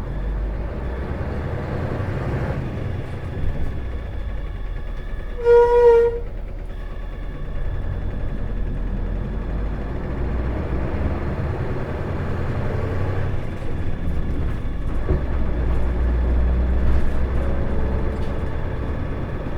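Isuzu Erga city bus's diesel engine heard from inside the bus, pulling away from a stop and accelerating, its low rumble growing louder in the second half. About five and a half seconds in, a single short horn-like tone sounds, loud for under a second.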